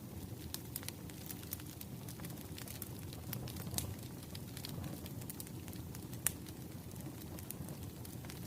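Wood fire crackling: irregular sharp pops and snaps over a low steady rumble, with one louder pop about six seconds in.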